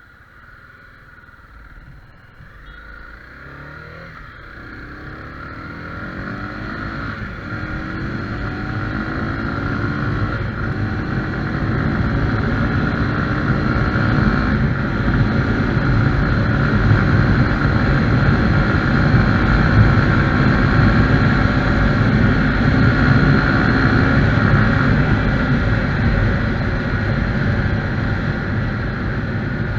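Honda CB300R's single-cylinder engine accelerating hard from low speed, its pitch rising through several gears over the first ten seconds or so as it gets louder. It then runs at speed with a steady rush of wind.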